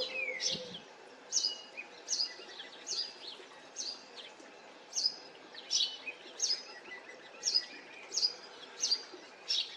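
A garden bird repeating a short, sharp high call about a dozen times, roughly once every three-quarters of a second, with a brief falling note near the start.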